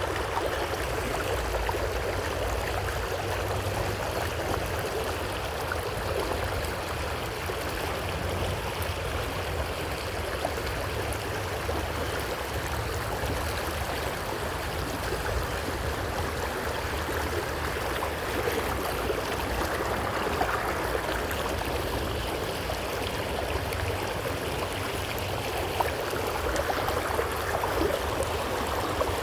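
Creek water flowing steadily over rocks in a continuous rushing babble, with a low rumble underneath.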